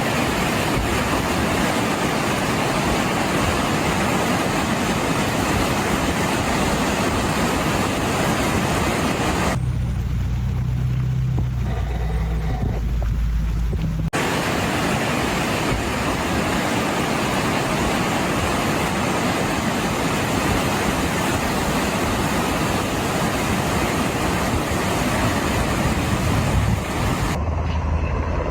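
Vehicles on a flooded highway: a steady, loud rushing of rain and tyre spray through water with traffic noise. For a few seconds in the middle it gives way to a low engine rumble, and a low hum comes in near the end.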